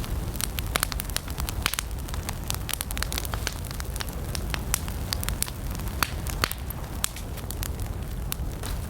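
Wood campfire burning steadily, with frequent sharp crackles and pops over a low, steady rumble of flames.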